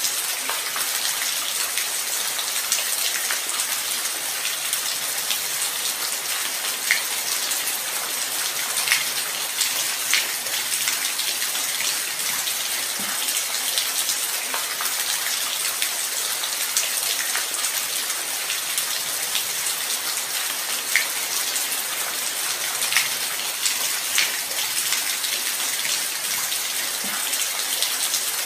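Steady light rain: an even hiss with scattered individual drops ticking sharply here and there.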